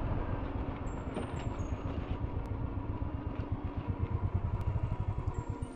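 A motorcycle engine running at idle: a low, uneven rumble that pulses more strongly about four to five seconds in.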